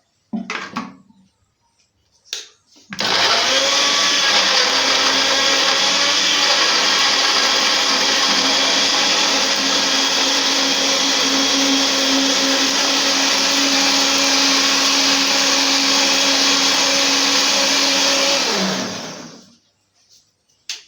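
Electric blender grinding peppers: a few knocks, then the motor runs loud and steady for about fifteen seconds and winds down, falling in pitch, as it is switched off.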